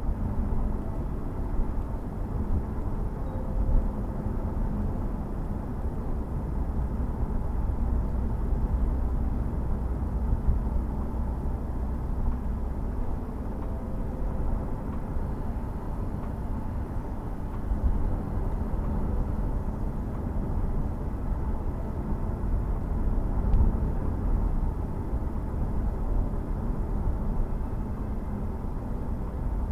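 Jaguar F-Type S's 3.0-litre supercharged V6 and tyres on the move at a steady pace: a continuous low rumble that swells slightly now and then.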